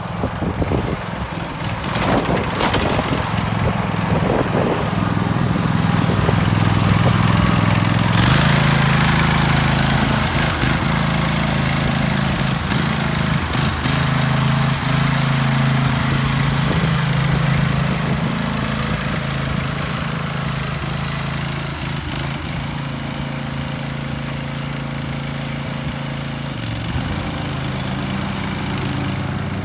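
Zero-turn riding lawn mower running under load while cutting grass, a steady engine hum whose pitch shifts about eight seconds in and again near the end.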